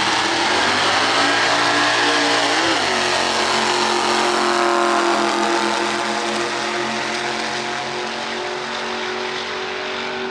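A drag-racing truck engine running hard down the strip. Its steady note shifts pitch briefly about three seconds in, then slowly fades with distance.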